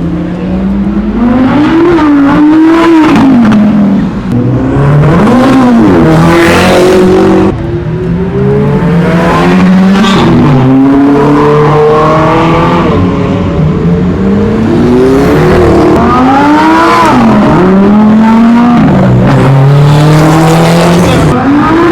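Supercar engines revving and accelerating hard, the pitch climbing and falling again and again, with sudden drops in pitch like gear changes.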